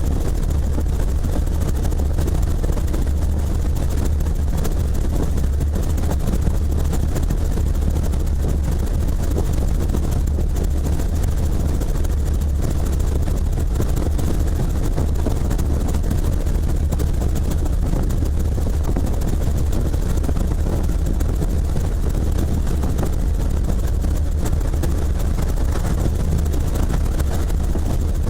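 Helicopter in flight, its engine and rotor making a steady, loud, low drone with no change in pitch or level.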